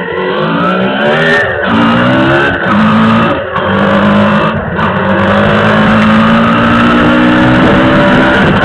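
Yamaha DT125's two-stroke single-cylinder engine accelerating: its pitch rises, drops at a gear change about a second and a half in, rises again and drops at a second change, then holds steady at cruising speed.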